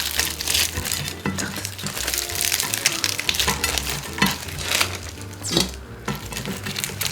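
Close-miked eating of crispy fried chicken: irregular crackling crunches and chewing, over faint background music.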